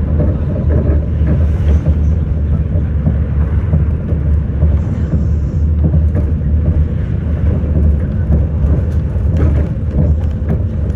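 City bus under way, its engine and road rumble heard from inside the cabin as a steady low drone, with scattered small rattles and clicks.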